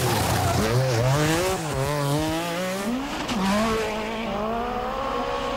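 Group B rally car engine revving hard as the car accelerates, its pitch climbing and dropping twice at gear changes before holding steadier, over a rush of tyre and road noise.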